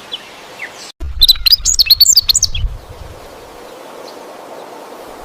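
Small birds chirping: a loud flurry of rapid, high chirps about a second in, lasting under two seconds, then a steady faint hiss with a few faint chirps.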